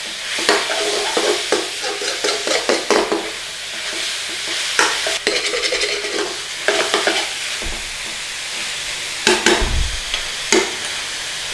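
Chicken pieces and onion frying in oil in a pan with a steady sizzle, while a utensil stirs and scrapes across the pan. The scraping strokes come quickly in the first few seconds, then more sparsely.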